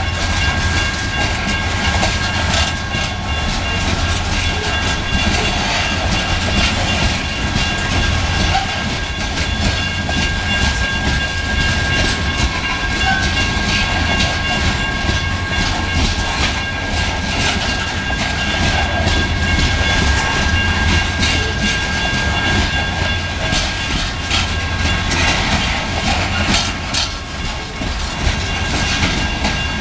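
Loaded coal hopper cars rolling past close by: a continuous low rumble of steel wheels on the rails with frequent irregular clacks, and a steady high-pitched tone held throughout.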